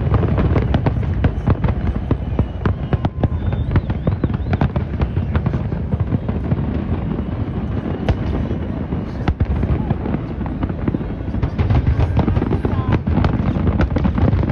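Aerial fireworks shells bursting in rapid succession: a dense barrage of many sharp reports over a continuous low rumble, easing a little in the middle and building again near the end.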